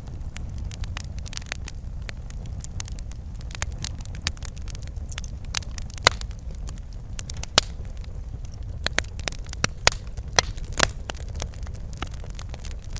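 Wood fire crackling in a fireplace: a steady low rumble of burning with frequent irregular pops and snaps, a few sharper ones standing out.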